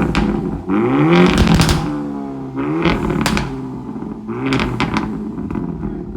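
Hyundai Elantra N's turbocharged four-cylinder running through an aFe Takeda cat-back exhaust, accelerating hard, its pitch climbing and dropping several times.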